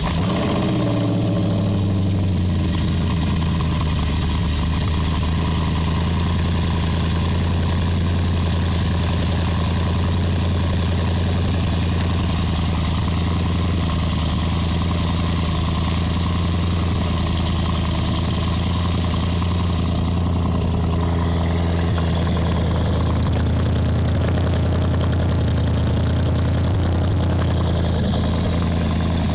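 Audi RS4 engine idling steadily just after a cold start, its pitch settling slightly in the first couple of seconds and then holding even.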